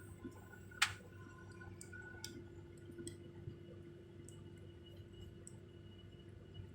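Airliner cabin at the gate after landing: a steady low hum from the aircraft's air system, with scattered small clicks and one sharp click about a second in.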